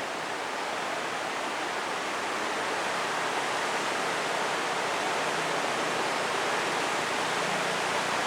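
Tidal bore surging up a river: a steady rush of churning water that grows a little louder over the first few seconds.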